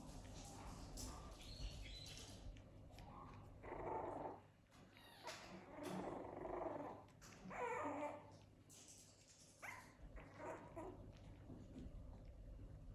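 Puppies growling and barking in several short outbursts, the loudest about four, six and eight seconds in.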